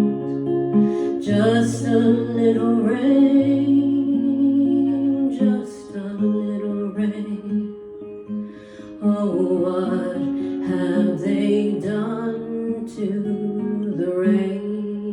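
Music: acoustic guitar strummed and plucked under a woman's long held sung notes, the closing bars of a folk song.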